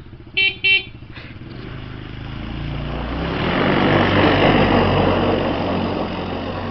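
Two short horn beeps, then a 250cc Kinroad XYKD-250 buggy's engine running as it draws closer, loudest about four to five seconds in, then fading as it goes by.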